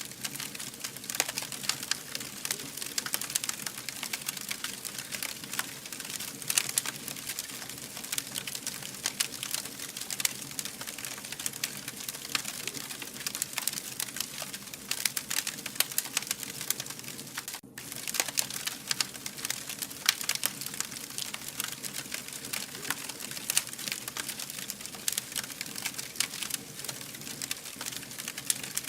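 Wood fire burning, with dense, irregular crackling over a steady hiss. The sound drops out for an instant about 18 seconds in.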